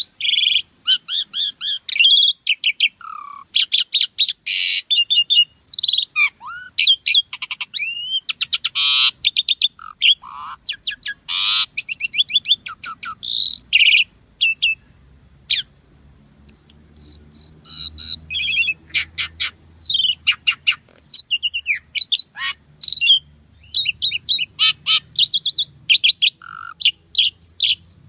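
Asian pied starling (jalak suren) singing in full, varied song: a fast stream of whistles, chattering notes and clicks, with a short pause about halfway through before it starts again.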